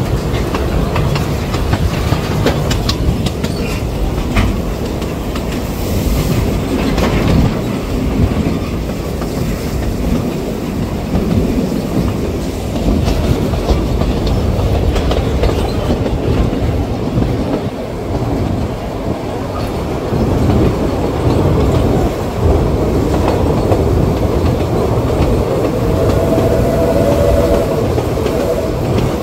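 Steam train running along the track, heard from inside an open-sided carriage: a steady rumble and rattle of the carriage with the clickety-clack of its wheels over the rail joints, and a brief tone near the end.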